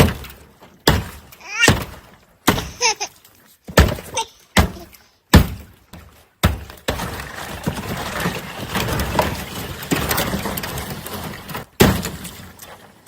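A rapid series of sharp strikes breaking ice frozen in a tub of water, about a dozen blows over the first six seconds, then a steady wash of water sloshing with one more strike near the end.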